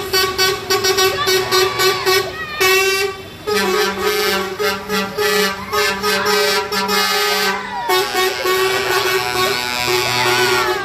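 Vehicle horns sounding in long held blasts from passing tractors, over busy music-like sound with a fast regular beat.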